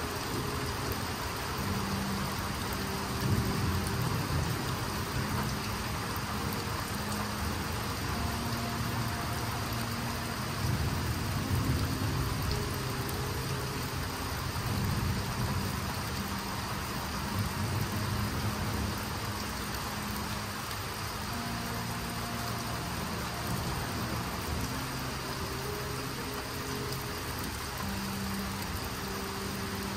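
Steady heavy rain falling on trees, leaves and wet ground, a continuous hiss. Low rumbling swells up and fades away several times.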